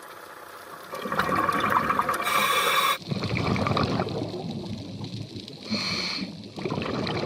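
Scuba diver breathing underwater through a regulator: a hiss of air, then exhaled bubbles gurgling and crackling past the microphone.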